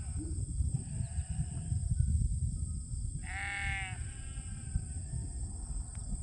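Sheep bleating: one loud bleat about three seconds in, with fainter bleats around it, over a steady low rumble.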